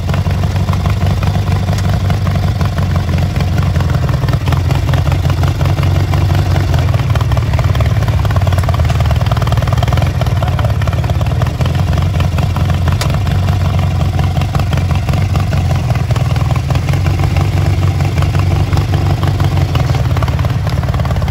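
Small engine of a rock-crawling riding mower running steadily and loudly for the whole stretch, with no letup.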